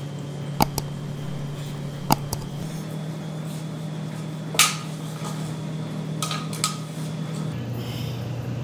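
Sharp clicks and knocks, about five of them, from hands handling the AC compressor's metal feet while rubber mounting bushes are pushed on. They sound over a steady low hum that drops slightly in pitch near the end.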